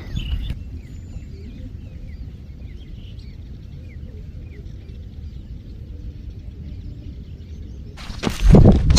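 Faint birds chirping, short downward-sliding notes repeated every half second or so, over a steady low rumble of wind on the microphone. A loud rush of noise comes in near the end.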